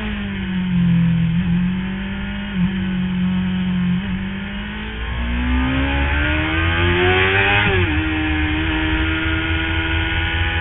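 Sports motorcycle engine heard from onboard over wind rush. It holds low revs through a bend, then climbs as the throttle opens, drops sharply with an upshift about eight seconds in, and climbs again.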